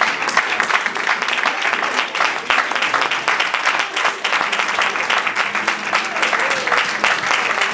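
Congregation applauding, many quick overlapping claps that keep up throughout. About five and a half seconds in, a few held instrument notes come in faintly under the clapping.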